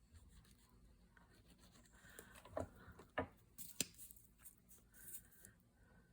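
Faint handling of paper craft materials on a worktable: soft rubbing and rustling, with three light taps about half a second apart near the middle.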